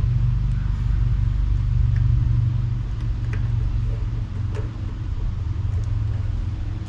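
Steady low mechanical hum, with a few faint clicks and taps.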